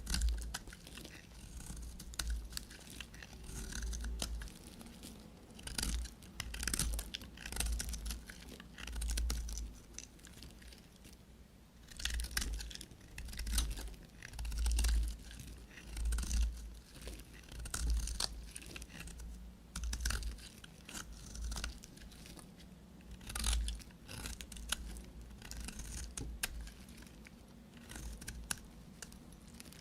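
A knife cutting through dry bar soap in a series of separate crunchy strokes, about one every one to two seconds, each with a low thump.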